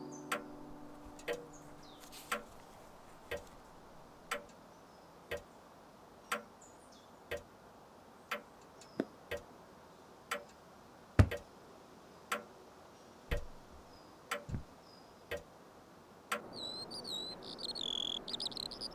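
A clock ticking steadily about once a second, with one louder knock about eleven seconds in. A lingering piano chord fades away at the start, and birdsong comes in near the end.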